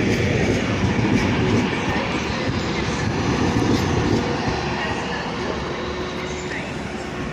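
A passenger train moving through the station with a steady rumble of wheels on rail, slowly fading.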